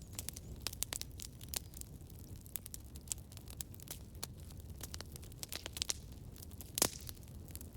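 Campfire crackling: irregular sharp pops and snaps of burning wood over a steady low rumble of the flames, with one louder pop near the end.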